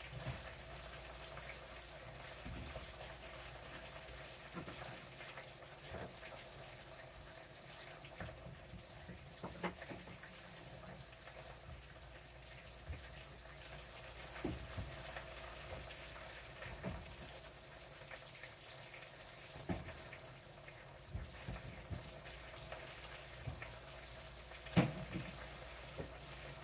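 Chicken wings frying in a skillet of oil: a faint steady sizzle with scattered pops and crackles, the loudest pop about 25 seconds in.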